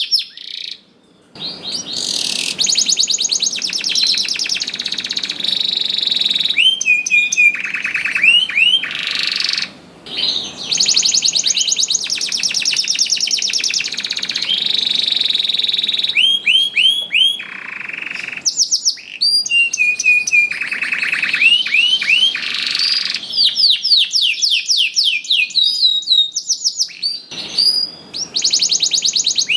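Domestic canary singing a long, lively song of rapid trills and rolls with repeated upward-sweeping notes. It breaks off briefly about a second in, around ten seconds in and near the end.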